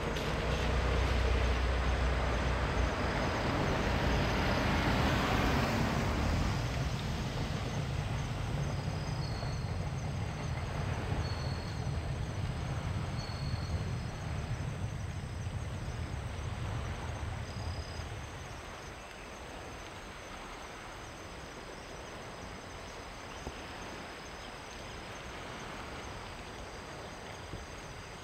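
A freight train hauled by a DD51 diesel locomotive rumbling past and receding. The rumble is loudest in the first few seconds and fades away by about eighteen seconds in, leaving insects chirping.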